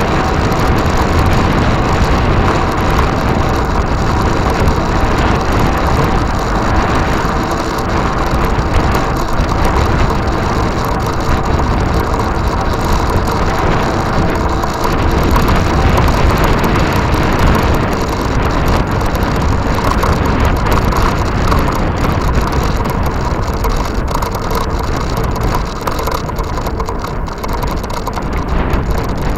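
Steady riding noise from an e-bike in motion: wind rushing over the microphone with road and drivetrain noise, and a faint steady hum.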